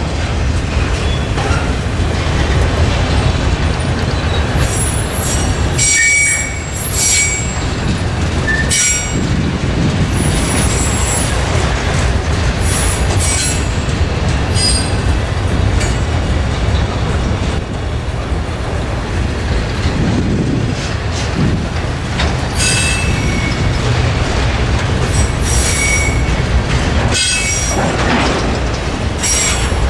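Freight train rolling past with a steady rumble of wheels on rail, and repeated short, high-pitched squeals from the wheel flanges every few seconds.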